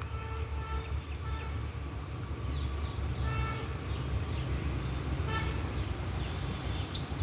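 Birds giving short, nasal calls several times, a second or two apart, with a few quick falling chirps, over a steady low rumble.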